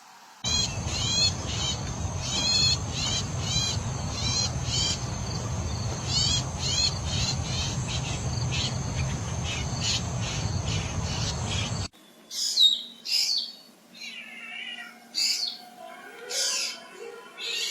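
Bird calls: quick chirps repeated in rapid series for about eleven seconds over a low rumble, then an abrupt cut to a different recording of varied chirps and whistles.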